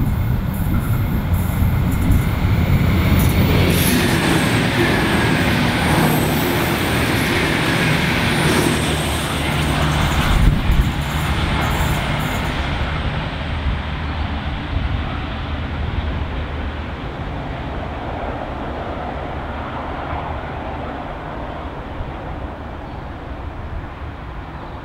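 A train running on the line, loudest in the first few seconds, with a steady low hum underneath; the sound then fades steadily.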